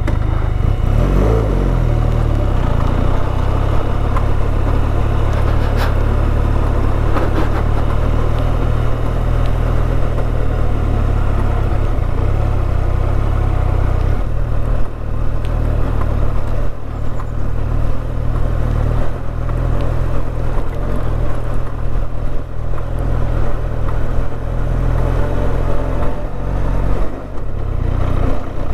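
Motorcycle engine running as the bike is ridden along a road, a steady low drone.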